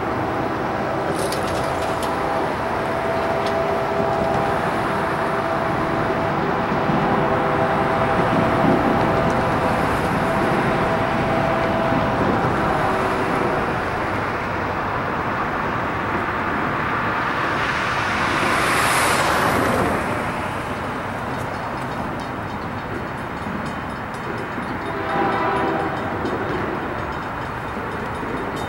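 Diesel locomotives of an approaching Union Pacific coal train running with a steady rumble that builds slowly. A brief rushing swell comes about two-thirds of the way through, and horn tones sound near the end.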